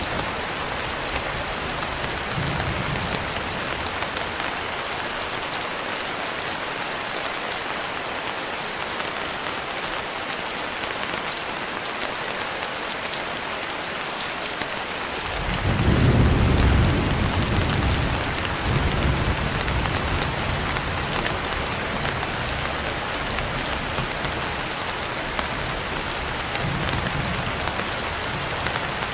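Steady heavy rain falling. About halfway in, a deep rumble of thunder swells for a couple of seconds, then rolls on more faintly in low pulses.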